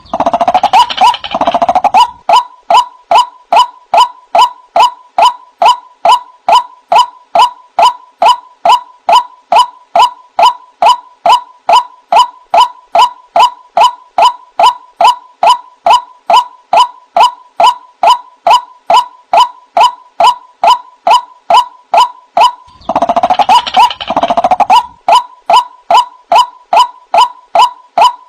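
White-breasted waterhen (ruak-ruak) giving its repeated "kruak" call, short evenly spaced notes about twice a second. Harsher, noisier calling joins in the first two seconds and again about 23 seconds in.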